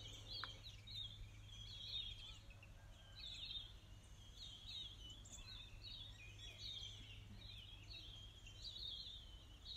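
Faint birdsong: many short, high chirps and trills repeating several times a second, over a low steady hum.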